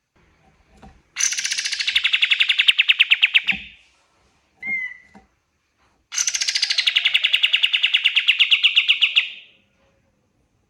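Kapas tembak songbird singing two long, fast trills of about ten notes a second, each starting high and settling lower and growing louder before it stops. A single short note comes between the two trills.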